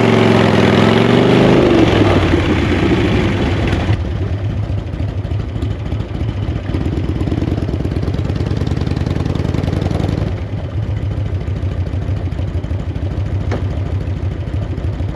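Chopper motorcycle engine pulling away, its pitch rising and then dropping in the first two seconds, then running low and steady at slow riding speed and near idle.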